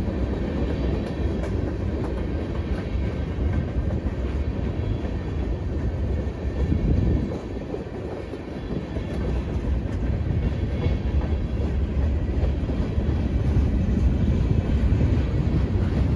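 Freight train of tank cars and boxcars rolling past at close range: a steady low rumble of steel wheels on the rails, briefly easing about eight seconds in and growing louder near the end.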